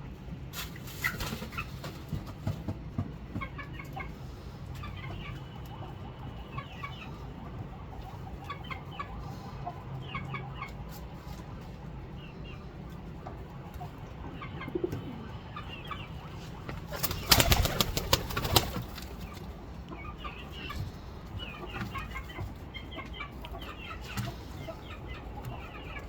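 Pigeons cooing among many short, high bird chirps, with a loud flurry of wing flapping about 17 seconds in that lasts under two seconds.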